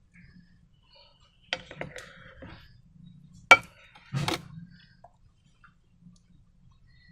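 Three sharp clicks or taps, the middle one the loudest, with faint crackling after each: objects being handled while making slime.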